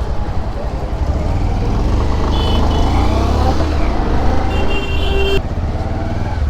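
Road traffic heard from a moving motorcycle: steady engine and wind rumble, with vehicle horns sounding briefly about two and a half seconds in and again for most of a second near the five-second mark.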